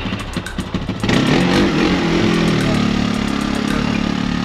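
An ATV engine revs: loud from about a second in, its pitch climbing slowly through the middle.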